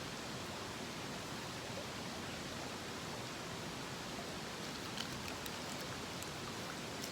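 Steady rushing of a mountain stream, with a few faint sharp clicks about five seconds in and near the end.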